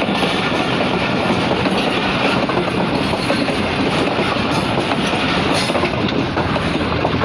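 Express passenger train running through a station at speed close by: a steady, loud rush of wheels on rail with a dense clatter over the rail joints.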